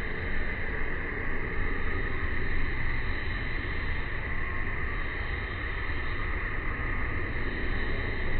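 Steady outdoor park ambience: a constant high-pitched drone over a low rumble, with no distinct calls or events.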